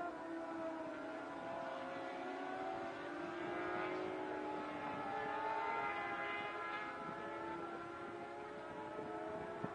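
Car engine noise heard from a distance: several engine tones that slowly rise and fall in pitch, with a short click near the end.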